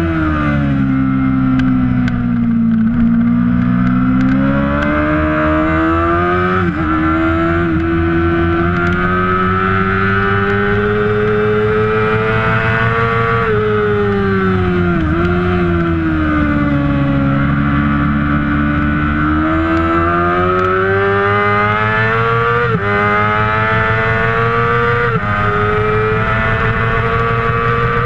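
Kawasaki Ninja 600 (ZX-6R) inline-four engine racing at high revs. Its pitch drops twice as the bike slows for corners and climbs twice under hard acceleration, with brief breaks in the note at gear changes.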